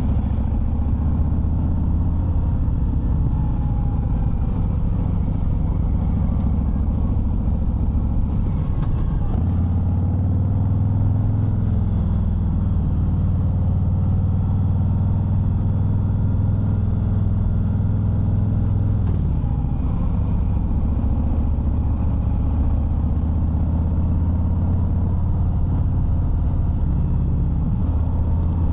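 Harley-Davidson Fat Bob 114's Milwaukee-Eight 114 V-twin running steadily while riding, a deep low note. The note dips briefly twice, about nine and nineteen seconds in, then settles back to a steady pitch.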